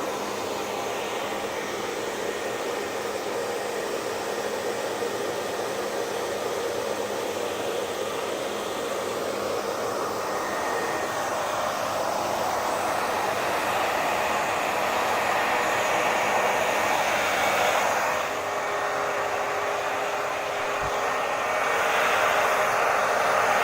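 Hair dryer running steadily: a continuous rushing of blown air with a faint motor hum. The tone shifts slightly and grows a little louder in the last few seconds.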